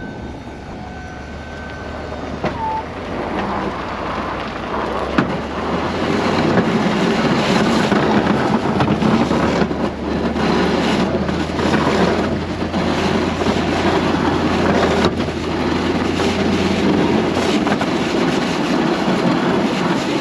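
Strong blizzard wind buffeting the microphone in gusts, building up a few seconds in and staying loud, over a low steady engine hum.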